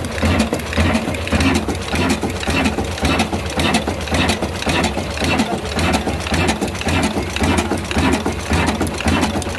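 Old diesel engine running steadily with an even, rapid beat.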